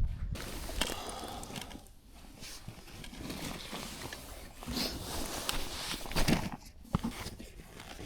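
Irregular rustling and crunching, like footsteps and clothing or gear being handled, with a couple of sharp clicks near the end.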